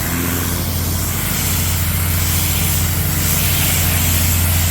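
Pressure washer running and spraying: a steady low motor hum under the even hiss of the water jet blasting grime off the pontoon.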